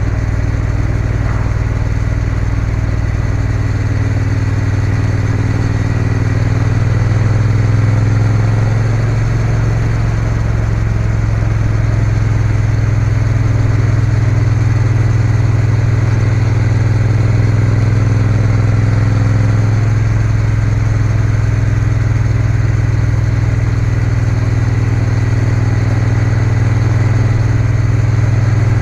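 Triumph Bonneville T120's parallel-twin engine running steadily with the bike under way. The engine note shifts a little twice, about seven and twenty seconds in.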